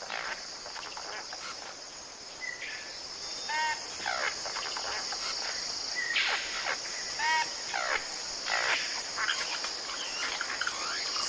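A king bird-of-paradise calling in a repeating pattern about every three to four seconds: a short ringing note, then quick falling whistles. A steady high drone of tropical forest insects runs underneath.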